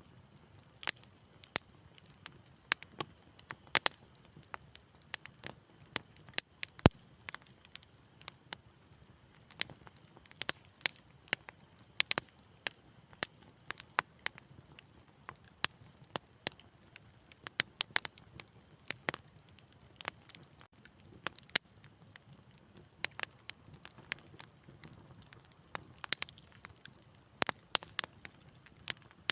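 Wood fire crackling: frequent sharp, irregular pops and snaps over a soft low hiss, with a few louder pops.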